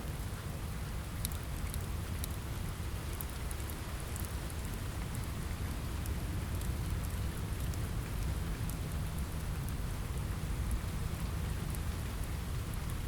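Steady rain on a window with a deep low rumble, mixed with scattered sharp crackles from a wood fire in a fireplace.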